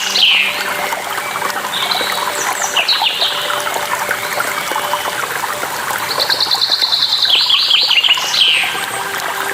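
Songbird singing over steadily running water. The song comes in phrases of a fast high trill followed by a run of falling notes, with a short phrase about two seconds in and a longer one about six seconds in.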